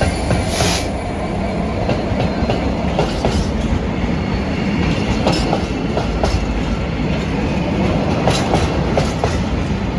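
Freight train hauled by a Class 66 diesel locomotive passing close by: a steady, loud rumble of wheels on rail, with irregular sharp clicks as the wheels run over rail joints.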